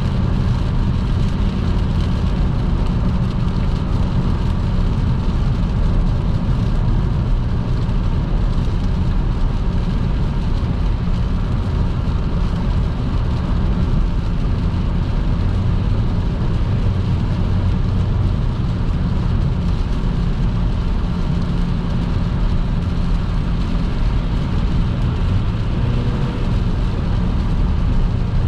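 A car cruising on a wet motorway: a steady low rumble of tyres and engine with road noise, unchanging throughout.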